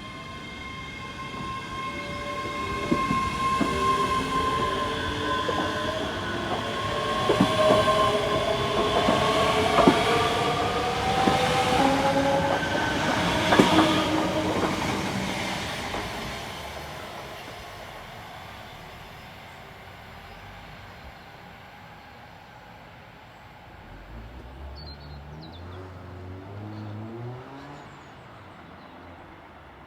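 A train passing: it builds to its loudest over the first few seconds and stays loud until about fifteen seconds in, with whining tones and sharp clicks of wheels over rail joints, then fades away. A fainter, separate sound comes near the end.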